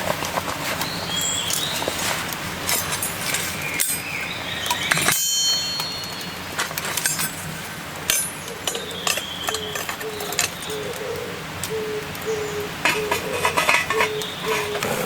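Camp dishes and utensils being handled: scattered clicks and clinks, one of them ringing like a cup or glass about five seconds in. Birds are calling around it, and in the second half a low short note repeats about twice a second.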